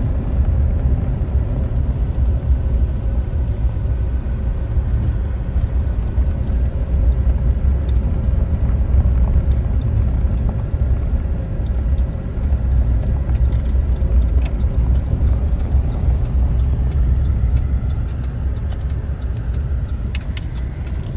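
Steady low rumble, with scattered light clicks near the end.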